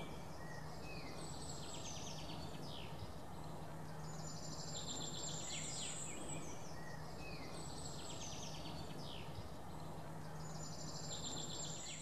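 Songbird singing outdoors, a high trilling phrase ending in falling notes and repeated about every three seconds, over steady background noise with a faint low hum.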